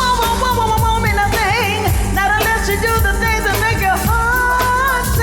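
Upbeat band music with a steady drum beat, bass and a wavering lead melody line.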